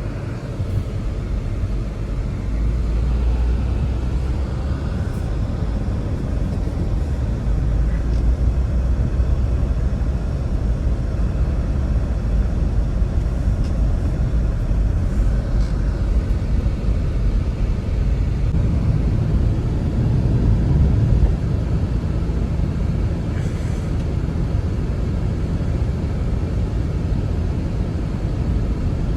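Strong blizzard wind blowing as a steady low rumble, swelling a little about two-thirds of the way through.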